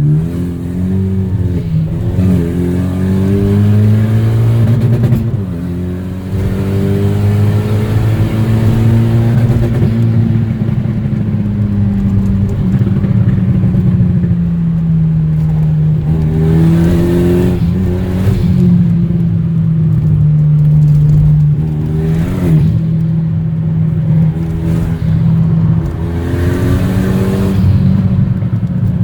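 Renault Mégane RS 225's turbocharged 2.0-litre four-cylinder with a straight-pipe exhaust, driven under varying throttle. The engine note rises and falls, with a few sudden drops in pitch as gears change.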